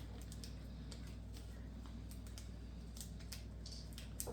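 Faint, scattered small clicks and rustles of board-game components and their packaging being handled, over a steady low hum.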